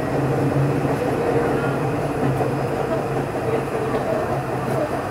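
Steady hum and rumble of a Tokyo Metro 03 series electric train: a low drone with a higher steady tone over it.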